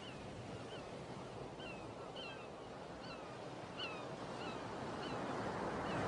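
Short, falling bird chirps repeating about once or twice a second over a steady wash of noise like surf, which swells gradually louder.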